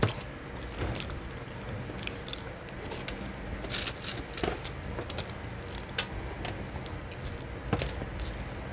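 Close-up eating sounds: chewing and wet mouth smacks on boiled pork leg and rice, with scattered sharp clicks, the loudest about four seconds in and near the end.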